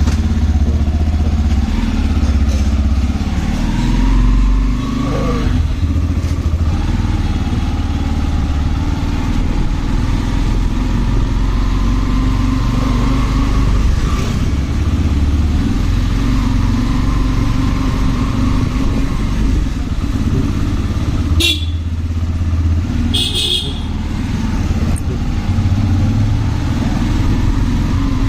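Motorcycle engine running under way with a steady low engine note and road noise. A horn sounds twice briefly about three quarters of the way through.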